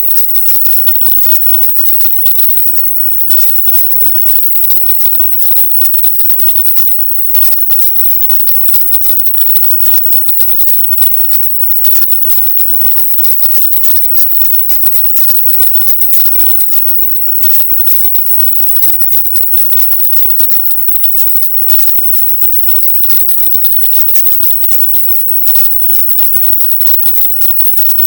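Loud, steady hiss, brightest in the treble and strongest near the top of the range, broken by frequent very short dropouts: the masked sound of a 'silent subliminal' audio track.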